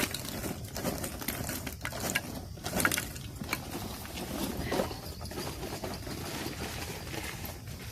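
Campfire cooking: a wood fire burning under a large pan of food, a steady hiss with scattered sharp crackles and clicks.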